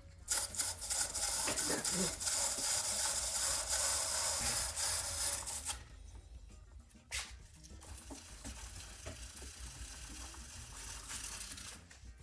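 Aerosol spray can hissing in one long burst of about six seconds, then quieter handling noise with a single knock.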